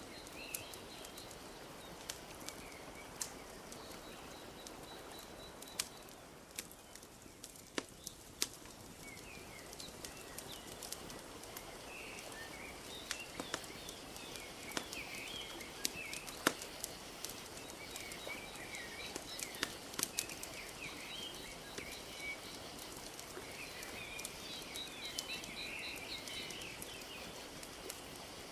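Wood fire crackling with irregular sharp pops over a steady wash of lapping lake water. Small birds chirp and twitter throughout, busiest in the second half.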